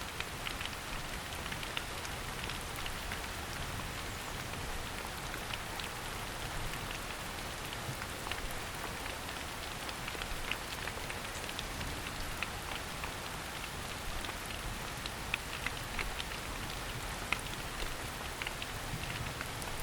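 Steady rain falling on forest foliage, an even hiss dotted with many separate, sharper drop taps.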